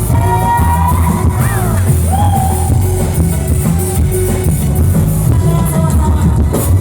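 Loud live dangdut band music: a heavy, rhythmic bass and drum beat under a sliding melody line.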